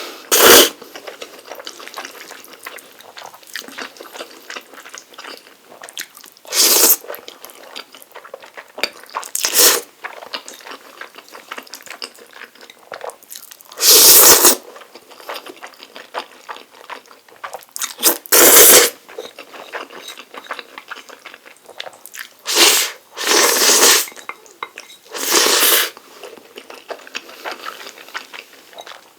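Close-miked eating of Chapagetti black-bean noodles: soft, wet chewing throughout, broken by about eight short, loud slurps.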